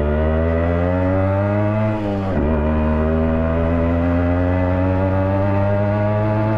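Yamaha RX100's two-stroke single-cylinder engine running loud and raw with its silencer mesh removed, pulling up through the revs on the move. The pitch climbs for about two seconds, drops sharply for a moment as at a gear change, then climbs slowly again.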